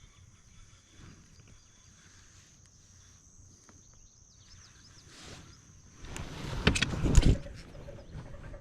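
Quiet outdoor ambience with a steady high-pitched whine. About six seconds in comes a second and a half of loud knocks and rustling close to the microphone.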